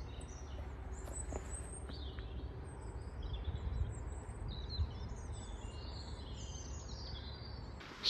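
Several small birds chirping and singing in short phrases throughout, over a steady low rumble.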